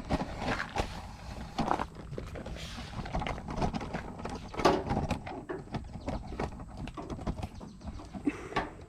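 Irregular knocks, clicks and clunks of metal parts and tools being handled and set down, with several louder knocks scattered through.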